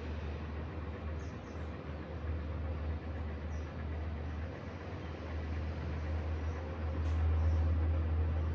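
Steady outdoor balcony ambience: a continuous low rumble under an even hiss, with a few faint high chirps early on and a single sharp tick about seven seconds in.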